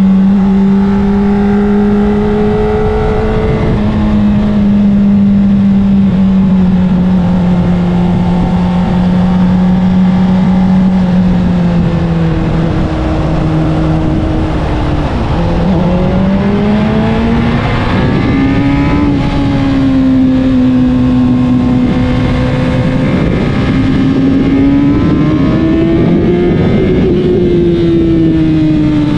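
Honda CBR600RR's inline-four engine through an Akrapovic exhaust, heard from the bike while riding. The engine note holds steady for about fifteen seconds, dips briefly, then rises and falls twice as the revs change.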